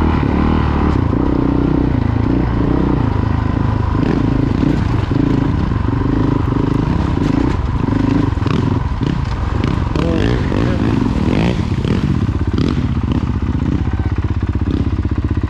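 Honda CRF450L-type single-cylinder four-stroke dirt bike engine running under a rider, its revs rising and falling repeatedly, with a few rattles and knocks from the bike.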